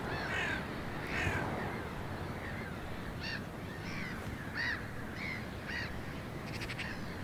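Birds calling repeatedly: a series of short calls, roughly one every half second to second, over a steady rushing background.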